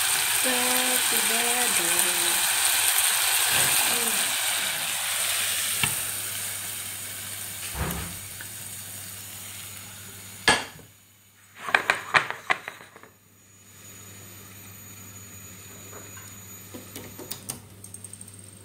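Duck tongues sizzling in a pot as the last of the braising liquid cooks off, loud at first and fading away over the first several seconds. Then a sharp knock and a short run of clatters about ten to twelve seconds in.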